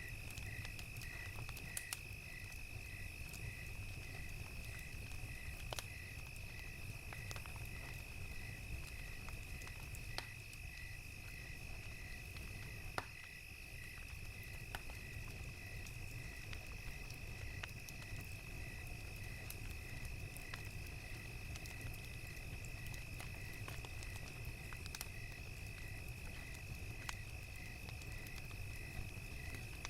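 Crickets chirping evenly, about two chirps a second, over a continuous high insect trill, with a fire crackling in scattered sharp pops and a low steady rumble underneath.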